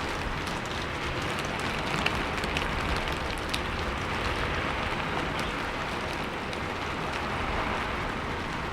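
Steady rainfall, an even hiss with scattered drops ticking sharply on a surface.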